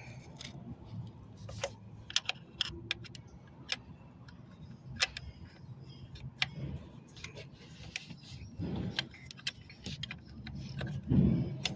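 Scattered light clinks and clicks of small metal objects being handled, over a steady low hum, with a louder thump near the end.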